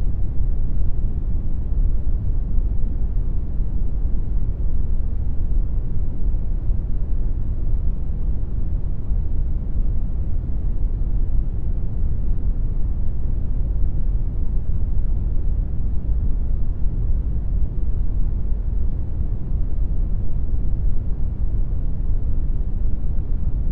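Computer-generated brown noise: a steady, deep rushing hiss, heaviest in the bass and falling away toward the treble, unchanging throughout.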